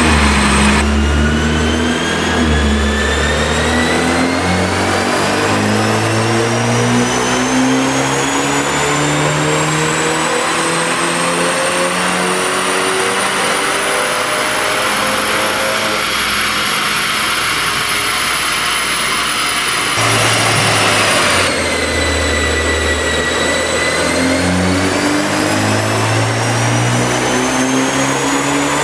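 2016 BMW 428i's turbocharged four-cylinder engine on a chassis dyno, revs climbing steadily under full throttle for about fifteen seconds with a rising whine from the drivetrain and rollers. It then lets off for a few seconds and climbs again from low revs in a second pull near the end.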